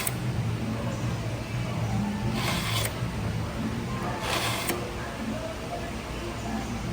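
Chef knife blade drawn through a portable knife sharpener: two short grinding passes, about two and a half and four and a half seconds in, over a steady low hum.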